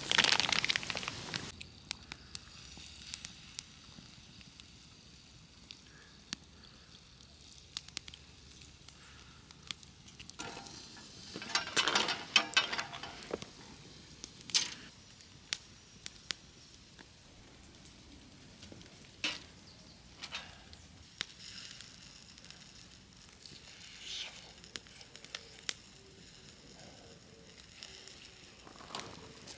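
Wood fire crackling with scattered sharp pops, and two louder stretches of noise: one at the start and one about twelve seconds in.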